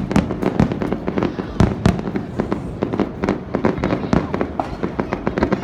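Fireworks going off in a rapid, dense barrage: many sharp bangs and crackles overlapping, several a second.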